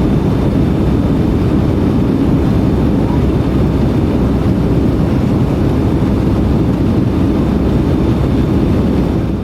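Steady rush of engine and airflow noise inside the economy cabin of a Boeing 757-200 airliner, cutting off suddenly at the very end.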